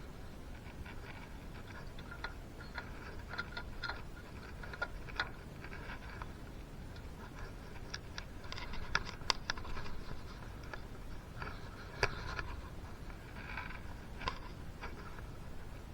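Irregular light clicks, taps and small scrapes of metal parts and hand tools being handled while a piston is fitted to a two-stroke engine.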